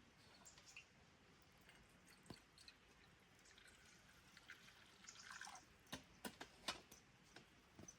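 Near silence, with a few faint scattered clicks; several sharper clicks come close together about six to seven seconds in.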